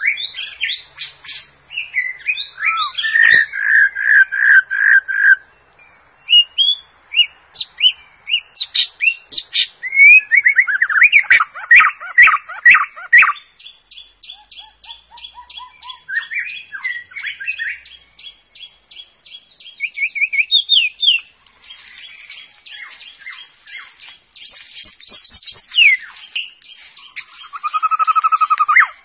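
White-rumped shama singing a varied song of whistled phrases and chirps, with a long fast trill of rapidly repeated notes through the middle.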